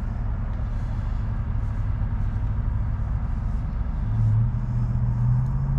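A motor vehicle engine running with a low, steady hum that rises a little in pitch about four seconds in.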